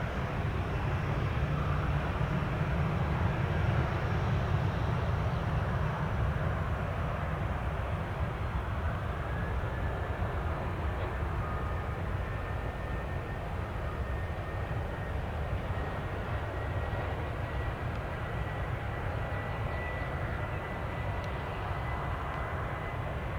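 Jet airliner engines rumbling as the aircraft passes, loudest a few seconds in. A thin turbine whine comes in partway through and slowly rises in pitch.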